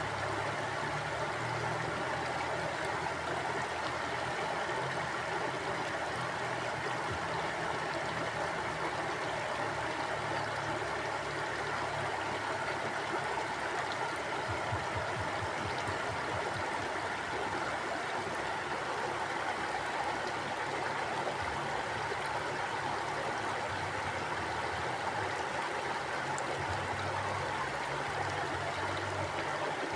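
River water flowing: a steady, unbroken rush of water.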